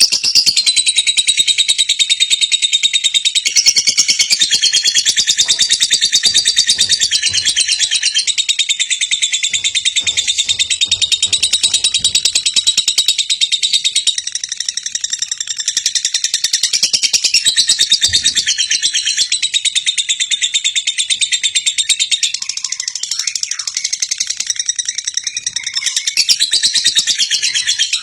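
Lovebird singing in a long unbroken chatter of very rapid high chirps. This is a trigger ('pancingan') song used to set other lovebirds singing.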